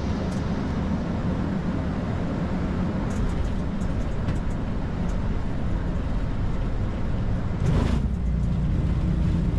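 Airbus A220-300 flight deck noise in the flare and touchdown: steady airflow rush and the hum of its Pratt & Whitney PW1500G geared turbofans, with a brief louder rush about eight seconds in.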